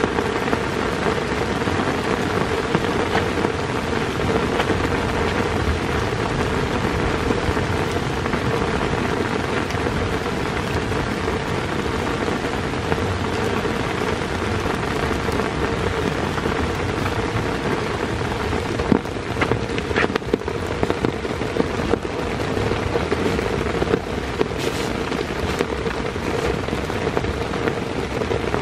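Heavy rain falling steadily, with a few sharper taps of drops about two-thirds of the way through.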